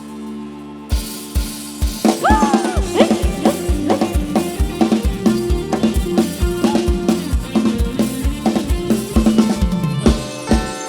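Instrumental break of live Isan band music played over a rot hae sound-truck system: a drum kit with a steady kick drum and snare, and a bending melodic lead line over it. The kick drum comes in about a second in and the full band about two seconds in.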